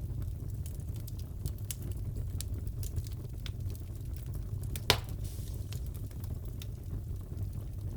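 Wood fire crackling in a fireplace: a steady low rumble with scattered small crackles and one louder pop about five seconds in.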